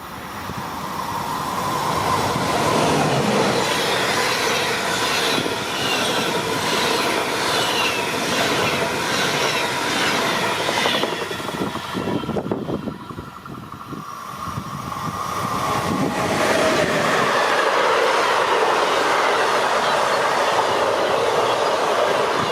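An InterCity train running past, its wheels clattering over the rail joints in a steady rhythm, then fading about two-thirds of the way through. A freight train hauled by a ZSSK Cargo Siemens Vectron locomotive then rises into a loud steady run-by.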